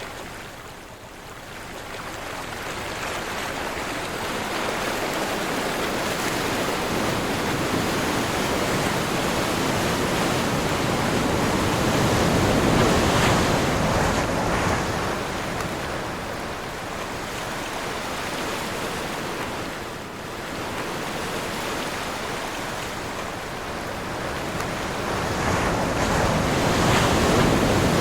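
Ocean surf rolling in, the rushing noise swelling and easing as waves break, loudest about halfway through and again near the end, with wind.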